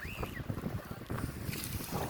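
Wind buffeting the microphone over light water sounds from a kayak being paddled, with a short high chirp just after the start.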